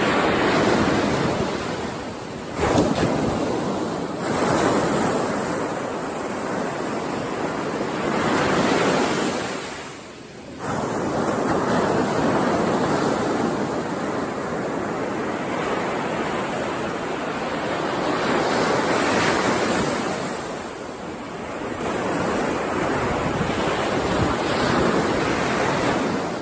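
Ocean waves breaking and washing up a shore, the surf swelling and ebbing every few seconds, with one sharp crash about three seconds in and a short lull about ten seconds in.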